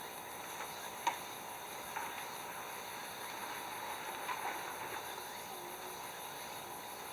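Insects chirping steadily in a continuous rhythmic chorus, with a few faint clicks or knocks about one, two and four seconds in.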